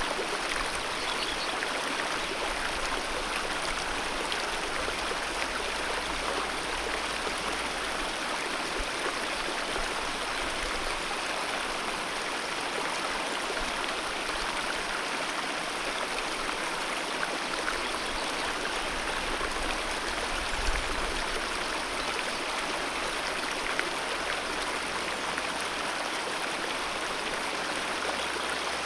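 Alpine mountain river flowing, a steady, even rush of water.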